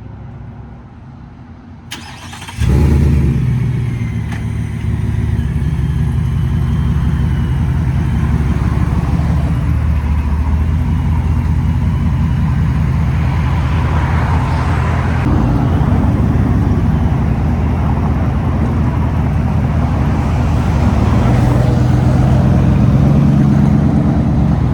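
Muffler- and resonator-deleted exhaust of a 2023 Ford F-150's 5.0 V8. It comes in suddenly and loud about two and a half seconds in, after a click, then keeps running with a deep, steady exhaust drone that swells a little twice.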